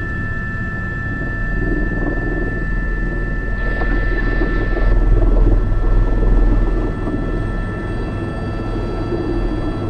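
Airbus H125 helicopter running steadily: a whine of several fixed high tones over the low, even beat of the main rotor. It grows louder for a couple of seconds in the middle, then settles back.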